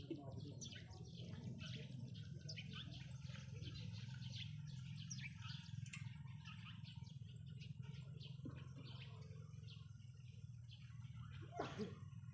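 Birds chirping, many short rapid chirps overlapping throughout, over a steady low rumble. A brief louder knock or rustle comes near the end.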